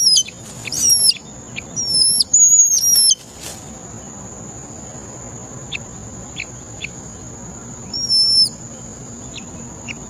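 Thin, high-pitched whistled bird calls, each sliding down and then holding, several in quick succession over the first three seconds and again about eight seconds in, with short faint chips between them. A steady high whine runs under them from about three and a half seconds in.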